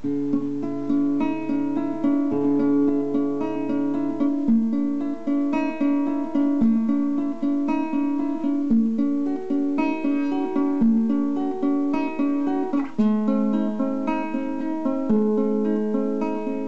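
Solo guitar playing a fingerpicked arpeggio pattern, with the chord and bass note changing about every two seconds.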